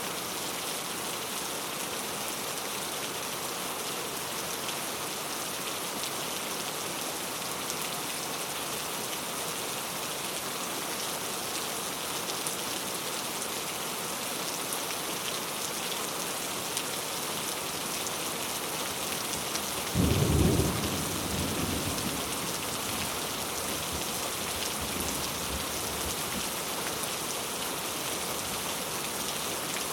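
Heavy rain falling on mango leaves, a steady hiss of drops. About two-thirds of the way through, a sudden low rumble of thunder breaks in and dies away over a couple of seconds.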